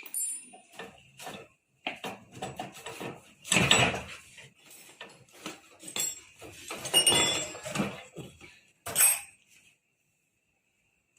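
Metal parts clattering and clinking as they are handled and knocked together. The loudest clatters come about four, seven and nine seconds in.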